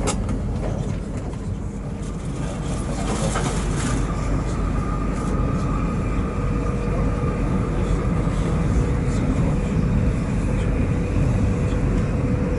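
A train running at a station platform: a steady low rumble with a steady mechanical hum. A higher tone joins about five seconds in, and a few sharp clicks come in the first four seconds.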